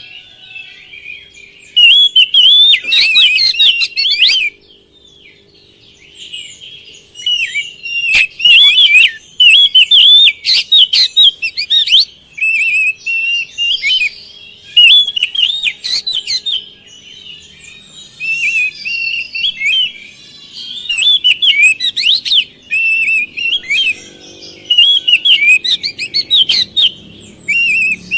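Oriental magpie-robin (kacer) singing loud, varied whistled phrases in bursts of a few seconds with short pauses between them.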